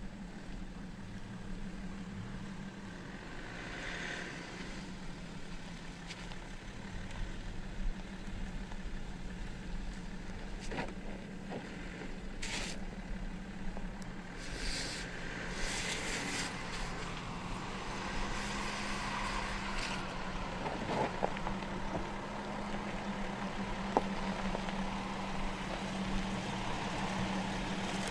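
BMW X5 SUV's engine running steadily at low revs as it crawls over a dirt and gravel mound, with a few sharp clicks along the way.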